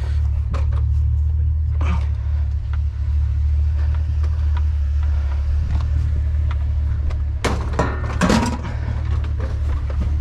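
Truck engine running with a steady low hum. A few knocks sound early, and a short burst of clunks and rattles comes about eight seconds in.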